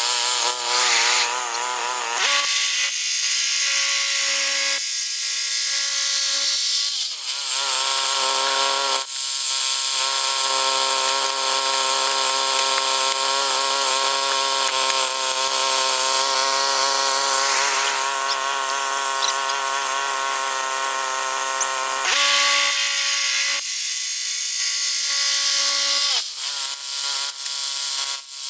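Woodland Mills HM122 portable bandsaw mill running, its gas engine holding a steady note under the hiss of the blade sawing through a pine log. The engine note drops and climbs back up several times.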